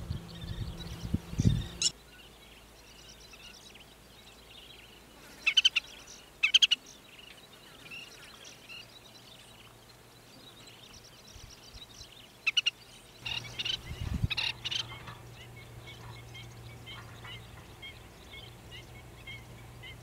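Wild birds calling at an open wetland: short, sharp, high calls come in quick groups about five and a half, six and a half and twelve and a half seconds in, and again in a cluster around thirteen to fifteen seconds, over faint scattered chirping. Low thumps come near the start and again about fourteen seconds in.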